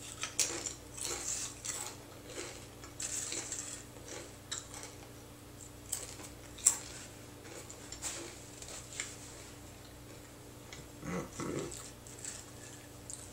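Close-up chewing of crunchy taco-flavored chips: an irregular run of crisp crunches and mouth clicks, with one sharper crunch about seven seconds in.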